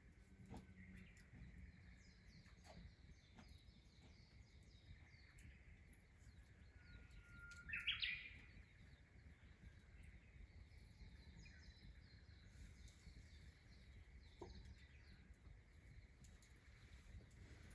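Birds chirping faintly outdoors, with one louder call about eight seconds in: a held note that breaks into a quick rising phrase.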